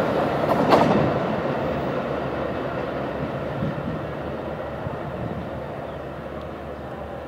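Metra push-pull commuter train rolling away, its wheels clacking over the rail joints, the rumble fading steadily as it recedes. A single sharp clack sounds about a second in.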